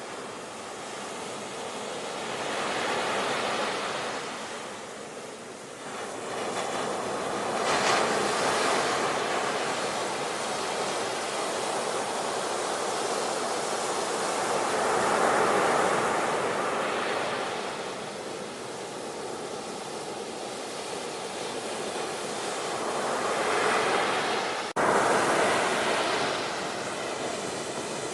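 Ocean surf, waves breaking and washing in, swelling and fading every several seconds. There is a brief abrupt cut in the sound about 25 seconds in.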